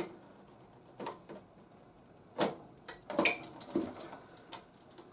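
Scattered clicks and knocks of a hard plastic toy helicopter being handled, about six over a few seconds. The loudest come about two and a half and three seconds in.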